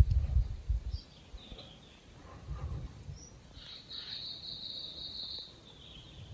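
Small birds calling, with short high chirps and then a sustained high beaded trill lasting about two seconds. A low rumble sits under the first second.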